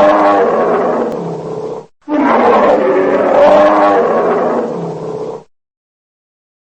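Two long, drawn-out calls from a large animal, each with a wavering pitch. The first lasts about two seconds; after a brief break the second runs about three seconds, then stops sharply.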